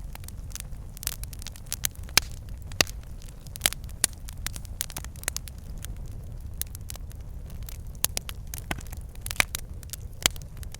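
Wood fire in a fireplace crackling and popping, with sharp irregular pops over a steady low rumble of the flames.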